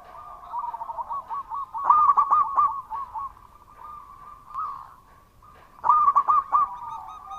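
Zebra dove (perkutut) cooing: bursts of quick rolling coos about two seconds in and again near six seconds, with longer drawn-out coos between them.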